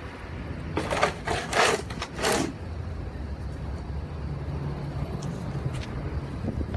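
A two-handled snow shovel pushing and scraping snow: several short scraping swishes, closely spaced, in the first two and a half seconds. A steady low hum runs underneath in the second half.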